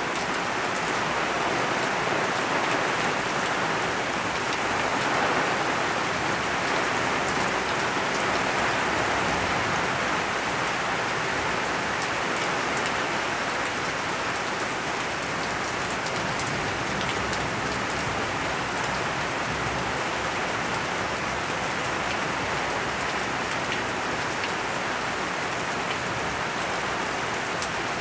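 Steady rain falling, with many small drop hits pattering on nearby surfaces.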